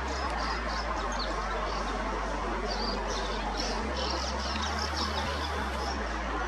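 Fairy martins twittering at their mud-nest colony: many short, high chirps over steady background noise.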